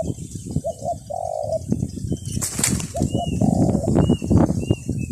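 Doves cooing in several short low phrases, over constant crackling and rustling, with a brief rush of noise about two and a half seconds in. Short high chirps from a smaller bird come in over the second half.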